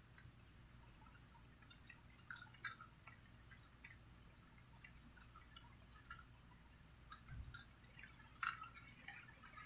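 Faint, irregular water drips falling one by one, a few a second, with a slightly louder drip near the end.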